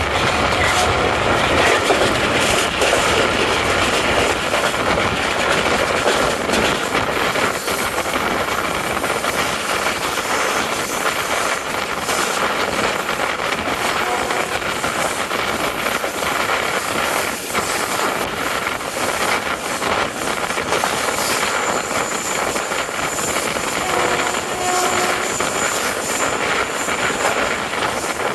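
Express passenger train running at speed: a steady, loud rushing noise of wheels on the track and air, without a clear beat of rail joints.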